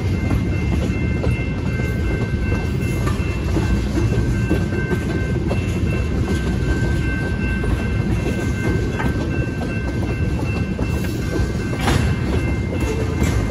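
Freight train tank cars rolling past over a grade crossing: a steady low rumble of wheels on rail, with an occasional clack as wheels pass over rail joints. A faint steady high tone rides over it at times.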